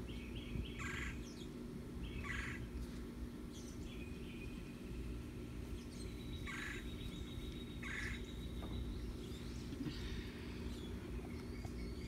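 Birds chirping in short calls, a handful of times, over the steady low hum of the pool's pump, which drives the automatic pool cleaner. A thin high whistle holds for a few seconds midway.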